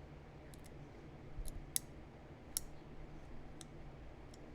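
Sharp, scattered clicks of a pressure flaker against the edge of a heat-treated chert point during pressure flaking, with a quick little cluster of clicks about one and a half seconds in.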